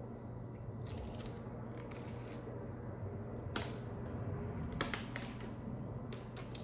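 A person chewing food close to the microphone, with a handful of short, sharp mouth clicks over a steady low hum.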